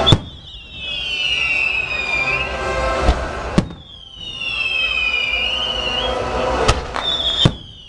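Aerial fireworks shells bursting: a sharp bang at the start, a pair of bangs about three seconds in and another pair near the end. Between the bangs, several shrill whistles slide down in pitch over a couple of seconds.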